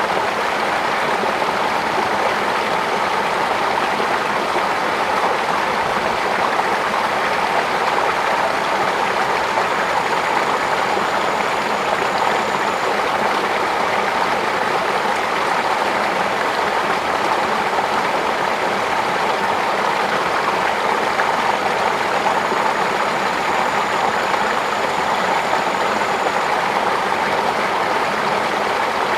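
Steady rush of flowing water, like a stream or channel running.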